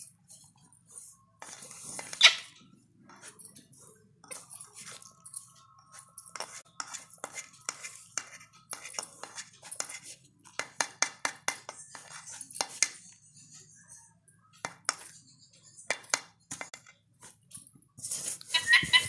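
Irregular light clinks and taps on metal kitchen dishes, with a faint steady tone for a few seconds near the middle.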